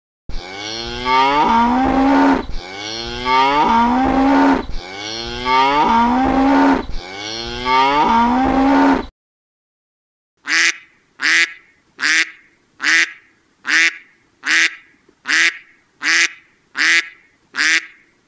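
A cow mooing four times in a row, each call long and rising in pitch. After a short pause, a duck quacks steadily, about ten short quacks a little under a second apart.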